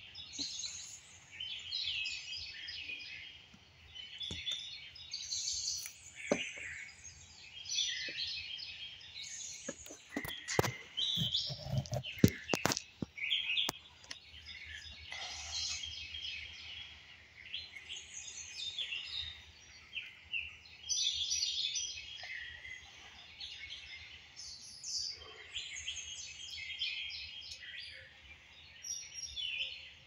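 Several songbirds singing and chirping in a continuous chorus, with a few sharp knocks about ten to thirteen seconds in.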